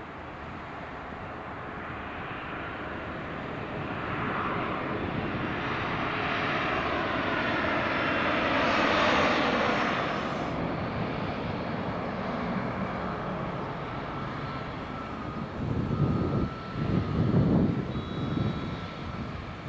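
Airliner passing close by, its engine noise building to its loudest about nine seconds in and then fading, with a whine that falls in pitch as it goes past. Near the end, low uneven rumbling bursts come and go.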